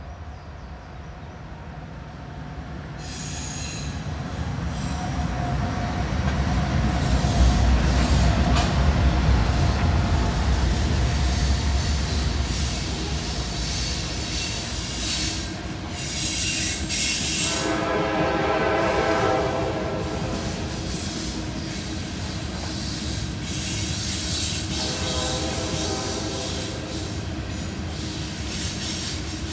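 A Norfolk Southern coal train passes: the diesel locomotives' deep engine rumble builds to its loudest as they pull upgrade, then loaded coal hopper cars roll by with wheels rumbling and squealing on the rails. Metallic squeals rise and fade more than once.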